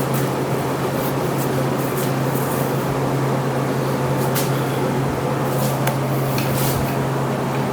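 A steady low machine hum, like a fan running, with a few faint light clicks scattered through.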